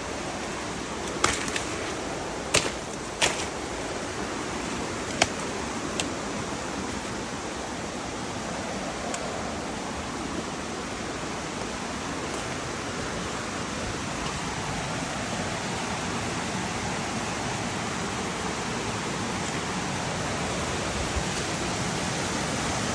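Steady rushing of a rain-swollen river flowing heavily. A few sharp taps come in the first six seconds.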